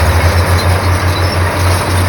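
Komatsu bulldozer's diesel engine running, a loud low drone that pulses several times a second under a steady mechanical clatter.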